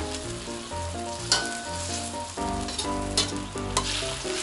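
Braised pork belly and potatoes sizzling in a stainless-steel wok as a metal ladle stirs them, with a few sharp clinks of the ladle against the wok. Light background music plays underneath.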